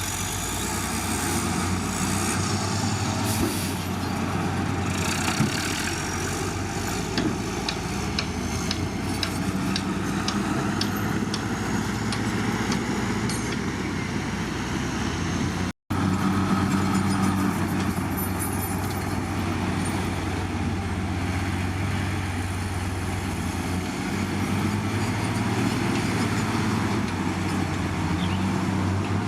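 Heavy diesel engine of earthmoving machinery running steadily under work, with a run of regular clicks partway through. The sound cuts out briefly a little past halfway.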